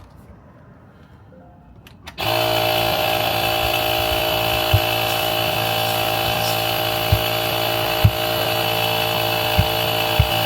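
Air compressor running and blowing compressed air to force a jumbo golf grip onto a club shaft: a loud, steady hiss and hum that starts suddenly about two seconds in and cuts off abruptly near the end, with a few short knocks while the grip is worked on.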